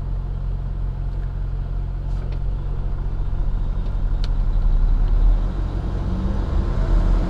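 Semi truck's diesel engine running while driving slowly through city streets: a steady low drone that swells somewhat about four to five seconds in.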